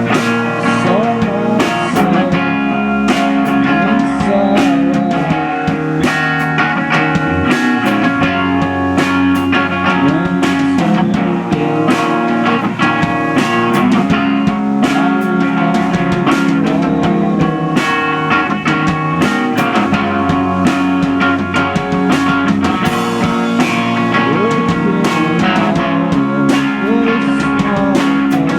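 Live rock band playing: electric guitars with bass and drum kit. The guitars play sustained chords and the drums keep a steady beat.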